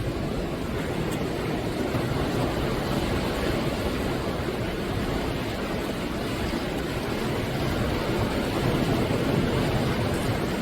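Ocean surf: waves breaking and washing up the shore in a continuous rush, swelling slightly in loudness now and then.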